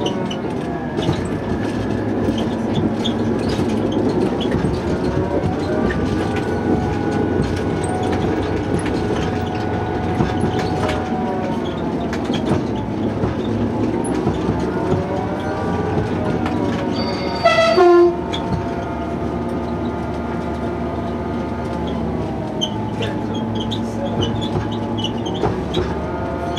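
A train running along the track with a steady rumble and slowly rising and falling tones, and one short horn blast about two-thirds of the way through.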